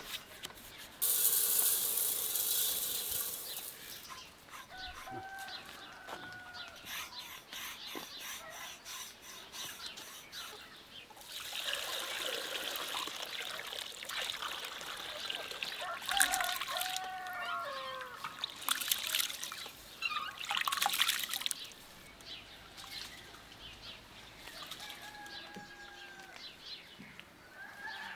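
Water splashing and pouring in three noisy bursts, with chickens calling now and then between them.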